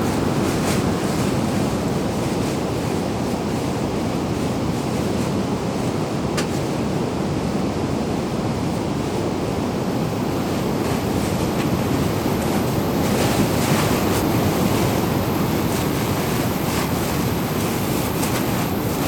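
Steady rush of flowing water, with scattered sharp ticks like raindrops striking a surface.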